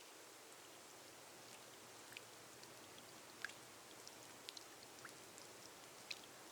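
Gentle rain on a glass roof: a faint steady hiss with single drops ticking here and there at irregular moments.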